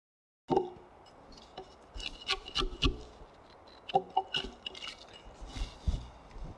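Hand chisel work in a timber mortise: a scattering of light clicks, scrapes and knocks of steel on wood, with a few duller thumps. It starts after half a second of dead silence.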